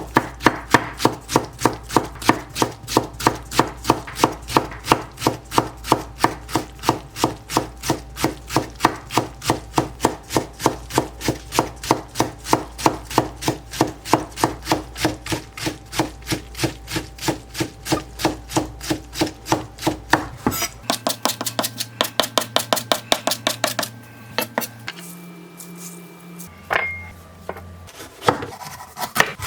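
Kitchen knife chopping food on a wooden cutting board in steady strokes, about three a second, then a quicker burst of strokes before stopping with a few scattered knocks near the end.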